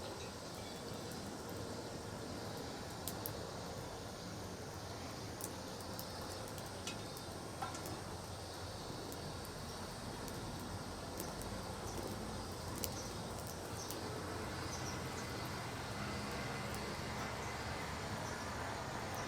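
Wood fire burning in a homemade fire pit cut from an old pot, with a steady rush and scattered sharp crackles and pops.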